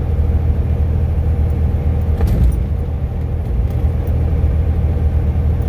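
A semi truck driving, heard inside its cab: a steady low engine and road rumble with a faint steady hum above it, and a brief bump a little over two seconds in.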